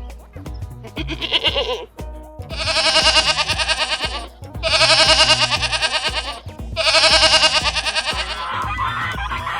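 A farm animal bleating: a short call, then three long wavering bleats of about two seconds each, over background music with a steady beat. Near the end a different, busier set of animal calls begins.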